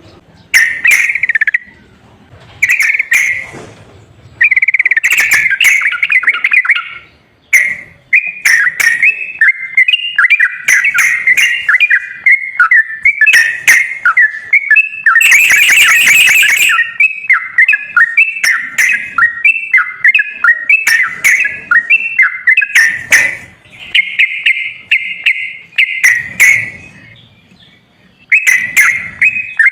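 Recorded sooty-headed bulbul (trucukan) song: quick, repeated whistled chirps and bubbling phrases with short pauses between bursts. About halfway through comes a harsher, buzzy call lasting a couple of seconds.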